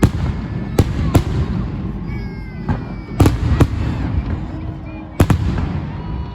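Fireworks salute shells bursting: about eight sharp bangs, some in quick pairs, over a continuous low rumble.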